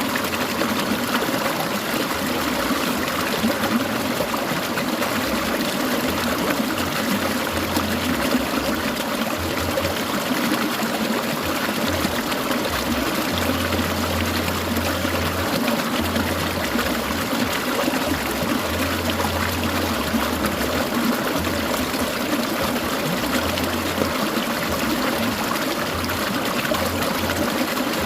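Clear mountain stream gurgling and trickling steadily over stones.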